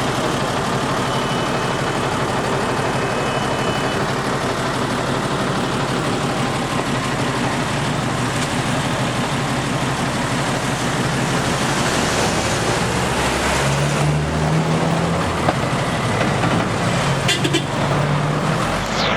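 Road traffic: the steady rush of vehicles, with a vehicle engine's low hum coming in about two-thirds of the way through and lasting several seconds.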